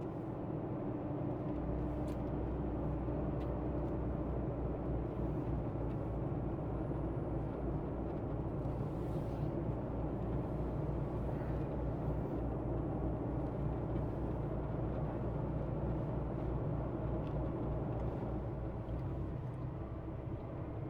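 Semi truck's diesel engine running steadily, a constant low drone with road noise; the low engine note grows stronger about a second and a half in and then holds.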